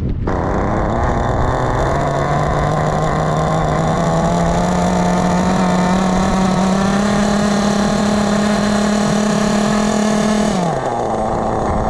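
Kyosho KE21SP .21 nitro two-stroke glow engine running at steady high revs, its pitch creeping slowly upward for about ten seconds. Near the end the revs drop suddenly to a lower steady idle.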